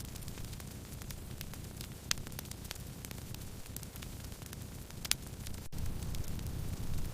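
Wood campfire crackling: scattered small snaps over a low steady rumble of the flames, with two sharper pops about two and five seconds in.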